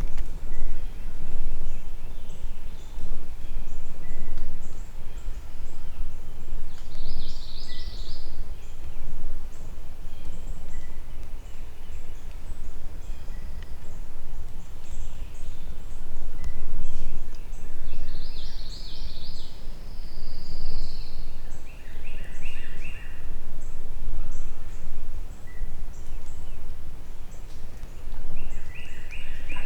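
Wild turkey gobbling several times, each gobble a quick rattling burst about a second long, over a steady low rumble.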